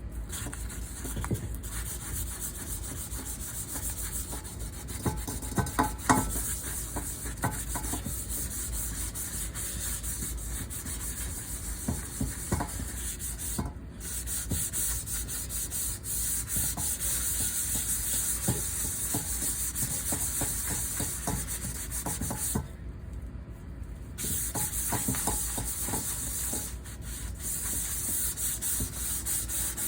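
Scouring pad scrubbing kitchenware: steady scratchy scrubbing that stops briefly a few times, with scattered light clinks and knocks.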